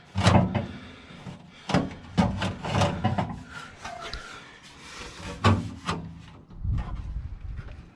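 Irregular knocks, scrapes and rubbing of car exhaust parts being worked loose and pulled off beneath the car, with a louder knock about half a second in, and others near two, five and a half and seven seconds.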